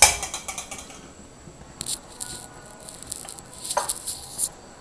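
Chicken pieces frying in spiced oil in an aluminium saucepan, the masala sizzling with irregular crackles and pops. The loudest burst of spattering comes right at the start and dies away, and more clusters of crackles come in the second half.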